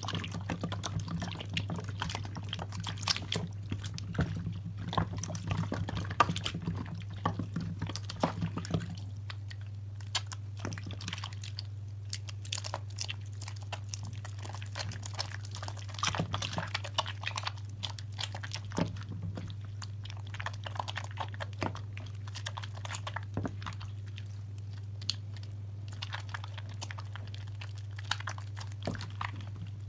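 Wet crackling and squishing of soaked soap lather and foam being worked and squeezed by hand: many small irregular pops and clicks, dense for about the first nine seconds and sparser after. A steady low hum runs underneath.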